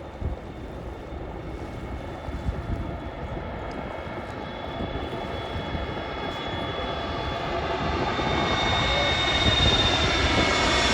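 British Airways Airbus A320neo jet on approach, its engine whine and rush growing steadily louder as it nears, with high whining tones coming in about halfway. Gusty wind rumbles on the microphone.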